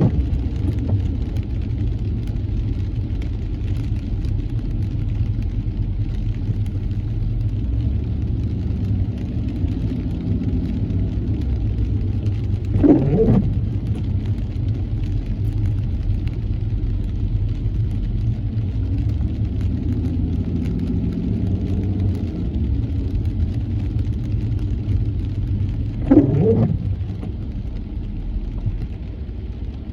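Car driving in the rain, heard from inside: a steady low road and engine rumble, with the windshield wipers making a short rising-and-falling sweep twice, about 13 seconds apart.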